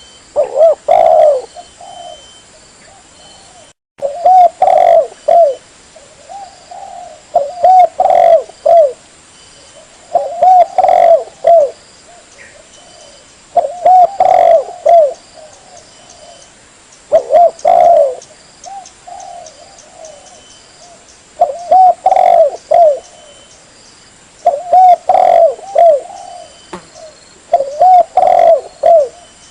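Spotted dove (tekukur) cooing: nine loud phrases of several short, rounded coo notes, repeated about every three seconds.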